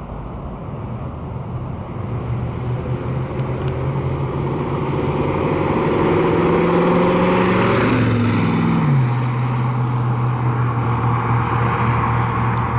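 1965 Ford Mustang's engine pulling under acceleration, its pitch and level rising for several seconds. About eight seconds in the pitch drops, and the engine runs on at a steady lower note.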